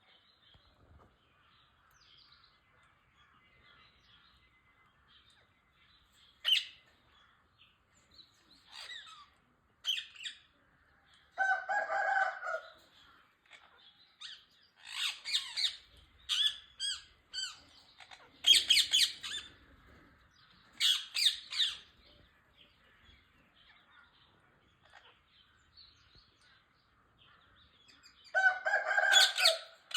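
Rose-ringed (green ring-necked) parakeets calling: harsh screeches and squawks in short bursts, with softer chatter between them.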